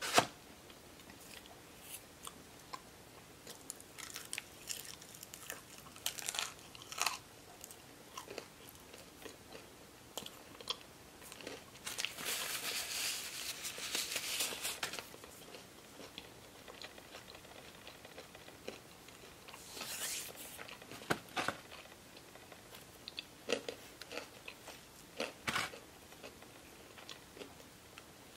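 Close-miked chewing and biting of breaded chicken fingers and crinkle-cut fries, with scattered short mouth clicks and smacks. About halfway through, a longer rustle as a paper napkin is rubbed over the fingers.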